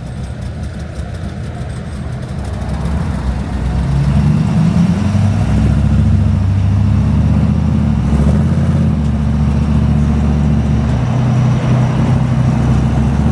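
Vehicle engine running with a steady low drone; it gets louder about four seconds in and then holds at that level.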